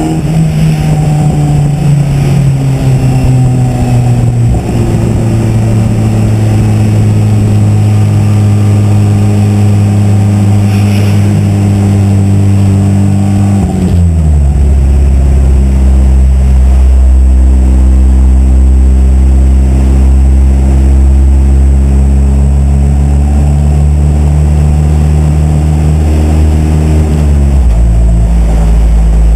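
KTM X-Bow GT's Audi-sourced 2.0-litre turbocharged inline four-cylinder running at a steady, held engine speed. Its note steps sharply down in pitch about halfway through and again near the end.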